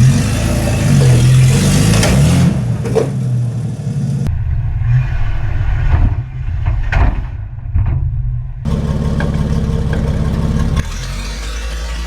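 Nissan GQ Patrol's TB42 carburetted petrol straight-six, running with no exhaust, revving under load off-road. Several sharp knocks and clunks come through in the middle, then the engine settles to a steadier, lower running near the end.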